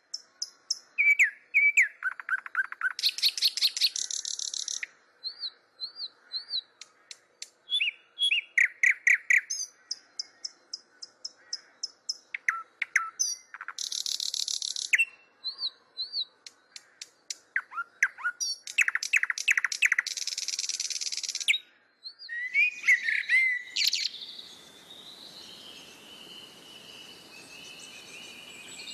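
Birdsong from several birds: a busy run of chirps, rapid trills and short whistled calls. About three-quarters of the way through it gives way to a fainter, steadier background hiss with higher calls over it.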